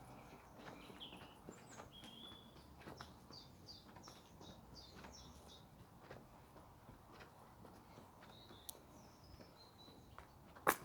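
Faint birdsong outdoors: short chirps and whistles, a few in quick runs, with a single sharp click or knock near the end.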